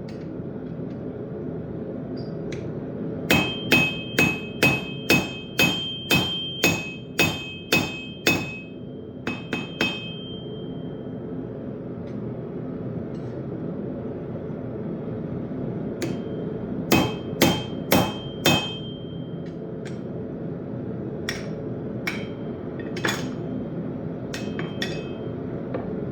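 Blacksmith's hammer striking steel on an anvil while forging a railroad-spike knife, with a ringing tone on each blow. A run of about ten blows, roughly two a second, is followed by a few lighter taps, then four more blows and scattered light taps, over a steady low hum.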